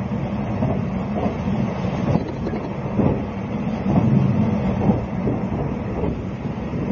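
Interior running noise of a JNR 20-series sleeper coach on the move: a steady low rumble broken by irregular knocks from the wheels, heard through an old cassette recording.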